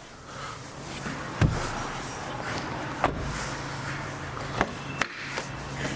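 Nissan Juke car door shutting with a single loud thump about one and a half seconds in, followed by a steady low hum and a few sharp clicks.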